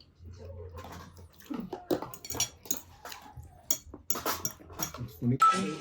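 Cutlery and crockery clinking as food is served from dishes onto plates: a string of irregular light knocks and clinks, some ringing briefly.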